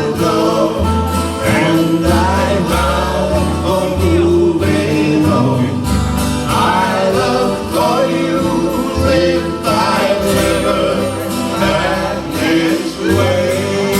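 Acoustic folk band playing live: strummed acoustic guitars over a walking bass line, with voices drawing out the song's last line.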